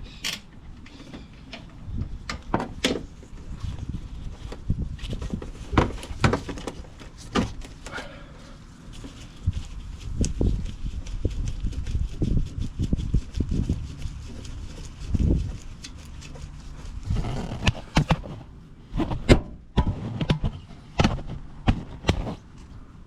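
Irregular clanks, clicks and knocks of hand tools and metal parts being worked on the truck's suspension, with some heavier low thuds around the middle.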